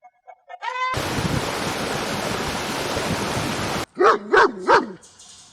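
A dog barking three times in quick succession near the end, after a short rising yelp-like call and nearly three seconds of loud, steady hissing noise.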